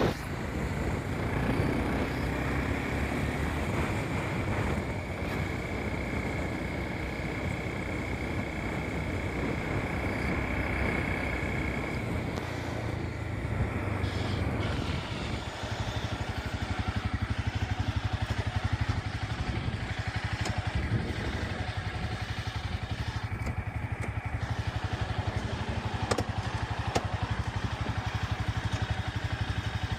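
Motorcycle running while being ridden, with its engine and road noise going on steadily; about halfway through the sound settles lower, with less hiss above.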